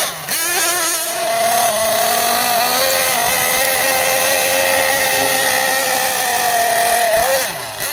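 Team Associated MGT 8.0 RC monster truck's nitro engine running at a steady high-pitched rev for several seconds, then dropping off near the end.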